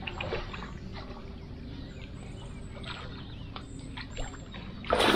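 Low, steady outdoor noise with faint scattered ticks, then, near the end, a sudden loud splashing as a hooked striped catfish thrashes at the surface while being drawn in to the bank.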